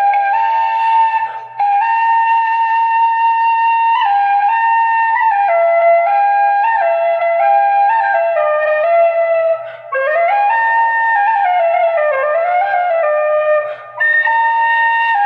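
Irish flute playing a slow single-line melody, with short breaths about a second and a half in, near ten seconds and near fourteen seconds, and sliding, wavering notes between about ten and thirteen seconds.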